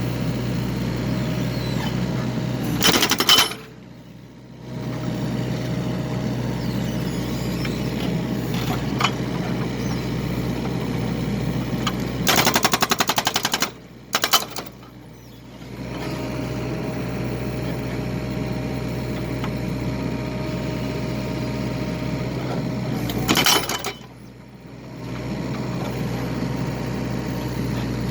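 Excavator engine running steadily while splitting firewood. Three times it is broken by about a second of rapid rattling knocks: about 3 seconds in, around 13 seconds and about 23 seconds. Each burst is followed by a brief dip in the engine noise.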